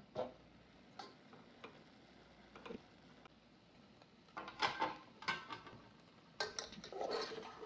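Light, irregular taps and clinks of kitchen utensils and dishes, a few single clicks at first, then two busier bursts of clatter in the second half.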